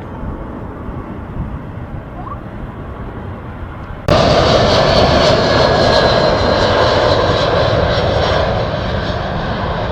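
Aircraft engines: a steady rushing noise that jumps sharply louder about four seconds in, with a high whine over it, then slowly eases off.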